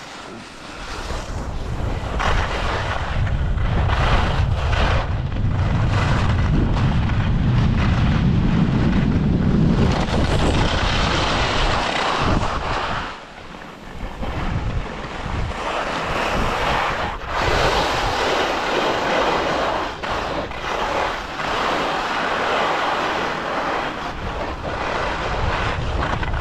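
Skis side-slipping down a packed, icy race course, their edges scraping and hissing over the snow and pushing loose snow along. Heavy wind buffets the microphone, loudest in the first part, with a short lull about halfway through.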